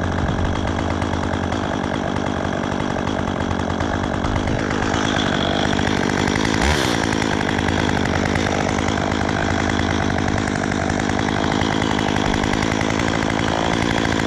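Chainsaw running steadily, with a brief dip and recovery in engine pitch about seven seconds in.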